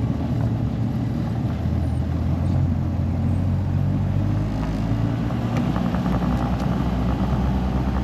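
Engine of a Polaris Ranger side-by-side (UTV) running steadily while driving, with a faint rattle in the last few seconds.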